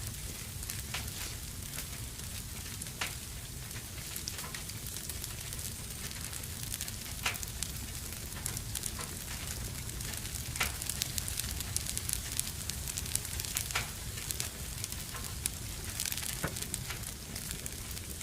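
Wood fire burning in a fireplace, crackling with irregular sharp pops over a steady low rumble and hiss.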